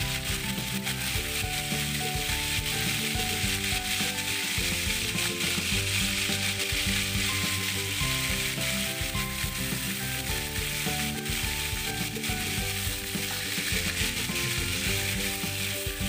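Chicken pieces sizzling steadily as they fry in oil in a steel wok, with background music of held notes changing every second or so.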